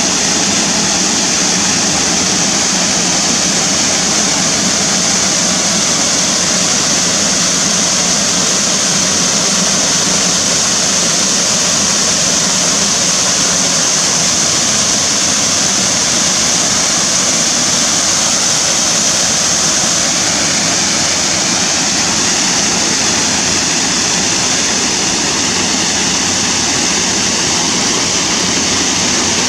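Waterfall cascading: a loud, steady, unbroken rush of falling water.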